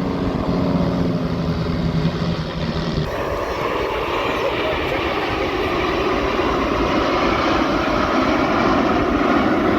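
Aircraft engine noise: a steady propeller-engine drone for about three seconds, then an abrupt cut to a broad rushing roar that slowly grows louder.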